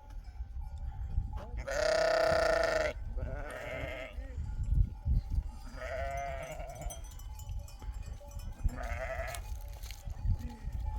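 Sheep bleating, four calls in all. The first, about two seconds in, is the loudest and longest, lasting about a second; the others are shorter.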